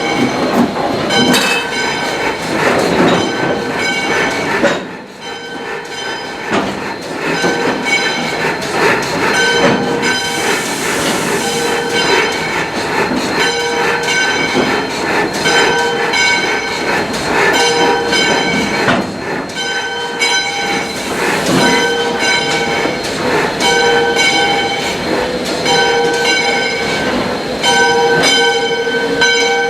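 Steam train running on the rails, with background music playing over it in notes that change about every second.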